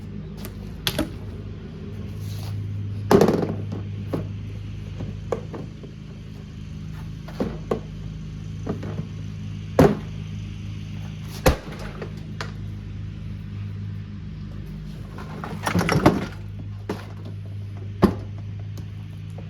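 Irregular knocks and thunks from a portable washing machine being broken apart, over a steady low hum. The hits are a few seconds apart, with the heaviest about three seconds in and a quick cluster of them about sixteen seconds in.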